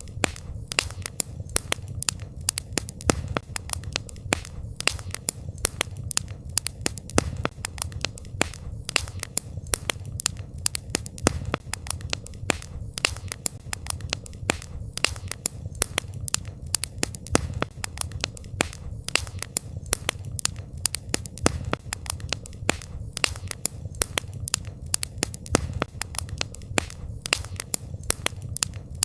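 Campfire crackling: a dense, irregular stream of sharp pops and snaps over a steady low rumble.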